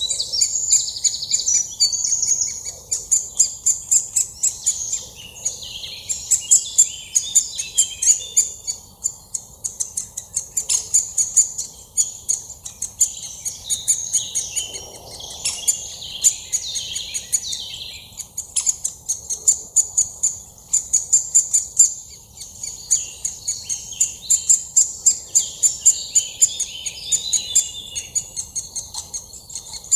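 Several songbirds singing and calling at once, a dense run of overlapping high chirps and trills with one high note repeated over and over.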